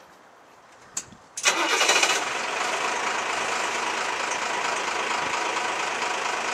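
Mercedes 4x4 fire engine's diesel engine starting: a click about a second in, then it catches suddenly, flares for under a second and settles into a steady idle.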